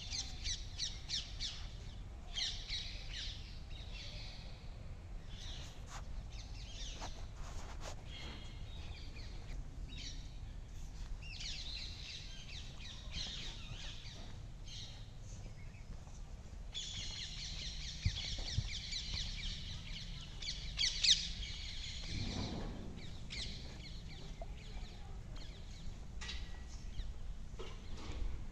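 Birds chirping in repeated runs of short high calls that come and go, with a few faint clicks.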